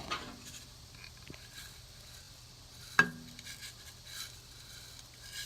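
Bird seed and a plastic food dish being handled: faint rustling and scraping, with one sharp clack about three seconds in.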